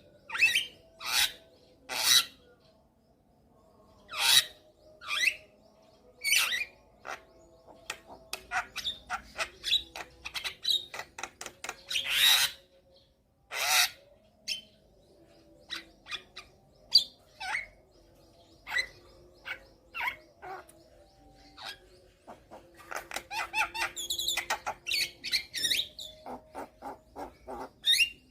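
Javan myna (jalak kebo) calling: a string of loud, harsh, short calls and whistles with pauses between them. There are a couple of longer rasping calls around the middle and a quick run of short notes near the end.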